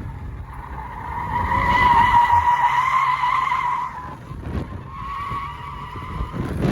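Tyres of a Volkswagen Golf 8 R squealing as it is drifted: one long squeal of about three seconds, then a shorter, weaker one, over the low running of the engine.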